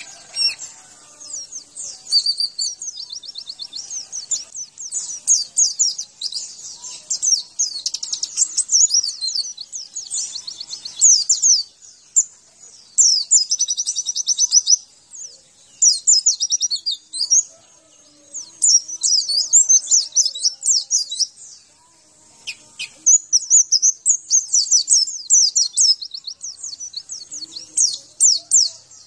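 White-eye (pleci) singing a fast, high-pitched warbling song in long phrases broken by short pauses.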